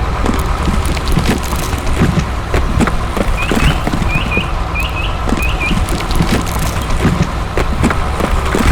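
Tractor engine running with a steady low rumble and rapid, irregular knocking. A small bird chirps a few times in pairs in the middle.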